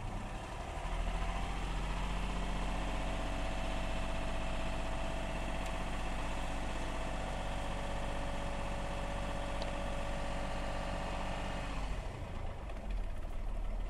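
Audi car engine, heard from the driver's seat with the car standing still. It rises from idle about a second in, holds a steady raised speed of around 2,000 rpm, then drops back to idle near the end.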